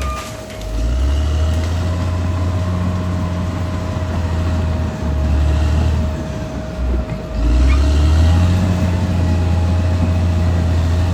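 Caterpillar D6R XL bulldozer's diesel engine running under work, a deep steady drone that dips briefly about half a second in and again around seven seconds in, with a faint steady whine above it.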